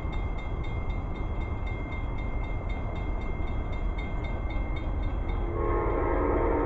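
Approaching train: a steady low rumble, then about five and a half seconds in the train's horn starts sounding, a chord of several notes. Regular high dings run throughout.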